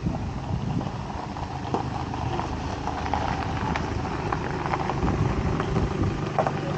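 A motor running steadily with a low hum, with scattered knocks and clicks over it.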